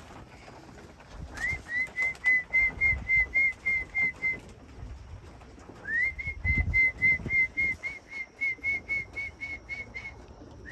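A pigeon fancier whistling to call his homing pigeons in to the loft: short, even whistled notes repeated about four times a second, in two runs, each starting with a rising swoop.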